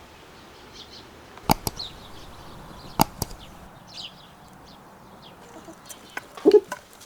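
Two sharp knocks, each followed quickly by a lighter click, among faint chirps of small birds; near the end a hen clucks.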